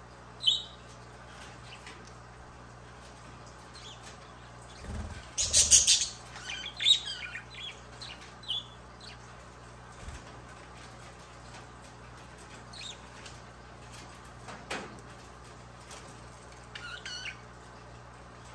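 Pet budgies giving short, scattered chirps, with a loud flurry of wing flapping about five to six seconds in.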